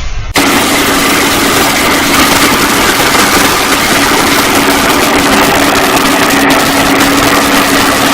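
Engine of a large machine running steadily and loud, with a steady hum and a fainter higher whine over its noise; it cuts in abruptly just after the start.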